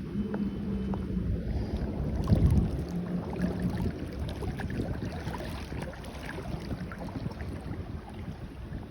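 Heavy rain, with wind buffeting the microphone and a scatter of drop ticks. A low steady hum runs through the first four seconds.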